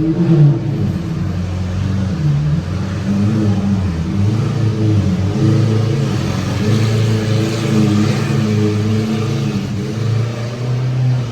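Car engines running at low revs as cars roll in, their pitch shifting up and down with throttle.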